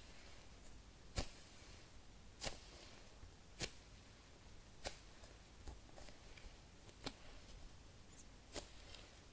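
Foam squishy toys being squeezed by hand: soft, faint handling with short sharp clicks about once every second and a quarter, weaker in the second half.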